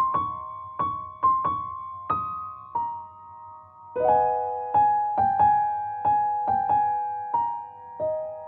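Background piano music: a slow melody of single struck notes and chords, each ringing out and fading.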